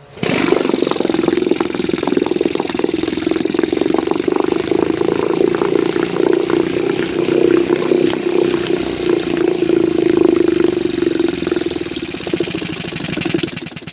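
Antique 1.5 hp Elto Evinrude two-stroke outboard motor starting at once and running steadily with rapid firing, then stopping near the end. It is running well on cleaned points and fresh fuel.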